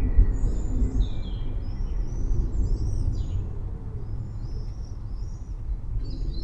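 Many small birds chirping in short, quick calls over a continuous low, fluctuating rumble.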